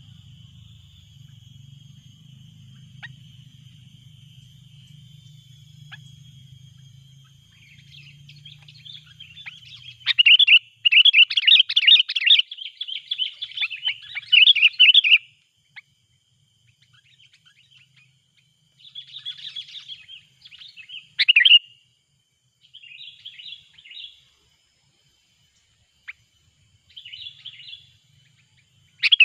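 Sooty-headed bulbuls calling. After a faint steady note, loud bursts of rapid chattering calls begin about ten seconds in, followed by several shorter bursts.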